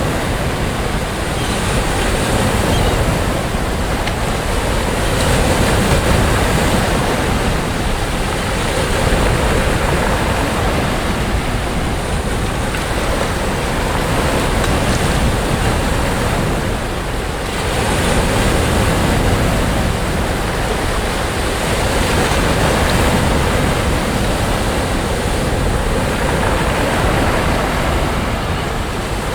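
Sea waves breaking and washing up on a sandy beach, a steady rush of surf that swells and eases every few seconds, with some wind on the microphone.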